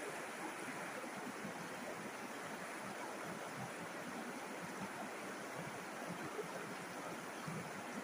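River water flowing and babbling over stones in a steady, continuous rush.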